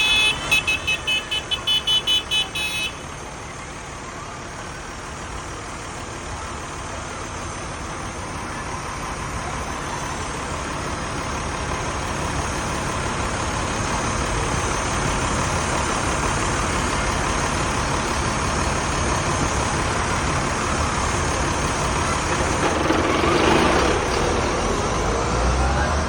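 A vehicle horn tooting rapidly, about four short blasts a second, for the first three seconds, then the steady running noise of passing tractors and traffic that slowly grows louder.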